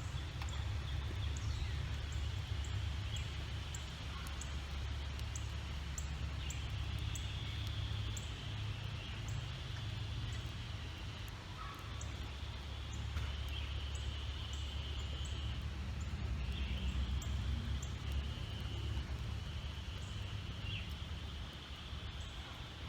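Birds trilling again and again on a steady high pitch, each trill lasting one to three seconds, with short high chirps scattered between, over a steady low rumble.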